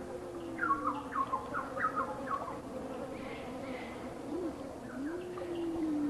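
Wild birds calling: a quick run of short, falling chirps in the first half, and low, drawn-out calls that rise and then fall, one near the start and one near the end, over a faint steady hum.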